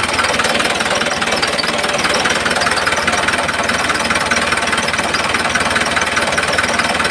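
Small geared electric motor of a DIY model tractor running, a steady rapid buzzing rattle.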